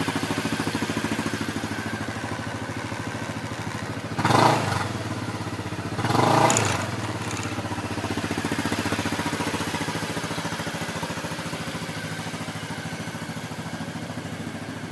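Honda Forza Z scooter's 250 cc single-cylinder engine idling through an aftermarket SP Tadao muffler, revved twice in short throttle blips a couple of seconds apart near the middle, then settling back to idle.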